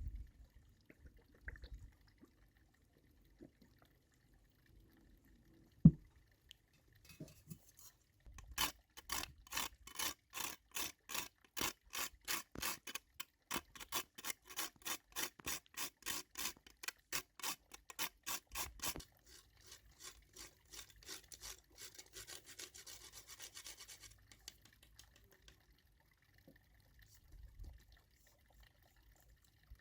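A steady back-and-forth rasping, a little over three strokes a second for about ten seconds, then softer rubbing for a few seconds more; a single knock sounds shortly before it.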